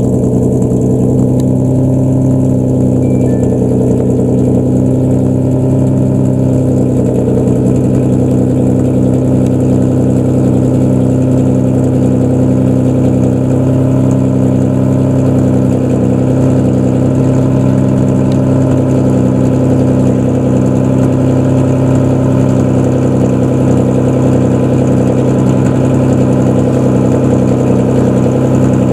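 Modified car's engine idling loudly through an aftermarket exhaust: a steady low drone with a slight uneven pulse, holding the same pitch throughout.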